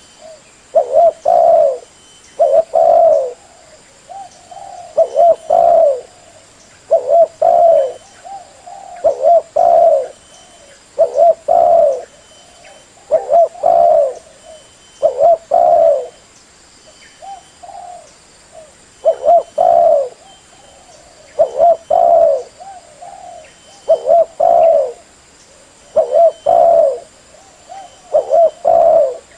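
Spotted dove (tekukur) cooing: a short phrase of a few low coos, repeated about every two seconds.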